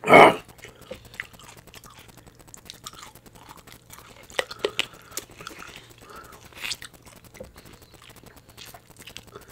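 Close chewing and wet mouth sounds of someone eating a green-lipped mussel, with scattered small clicks and smacks. A brief loud burst comes right at the start.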